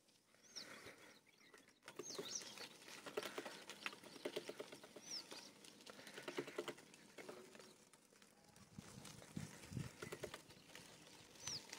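Faint outdoor birdsong: a few short, sliding high chirps and bursts of quick, rattling chatter, with scattered small clicks.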